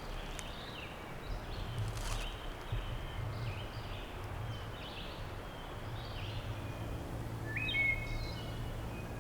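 Songbirds giving scattered chirps and short whistled notes over a steady low background hum, with one sharp click about two seconds in.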